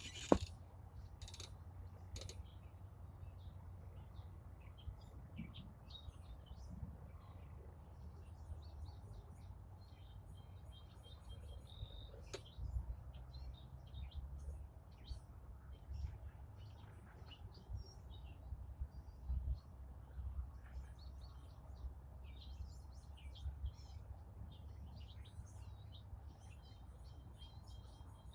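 Several birds chirping and singing in a morning chorus, many short high chirps and song phrases overlapping throughout, over a faint low rumble. A sharp click sounds right at the start.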